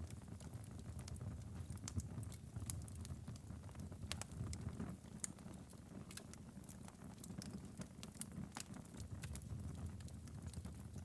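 Wood fire crackling in a fireplace: irregular sharp pops and snaps scattered over a low, steady rumble of the burning fire.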